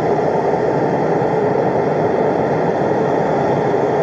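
Steady drone of an aircraft's engines, heard from inside the cabin.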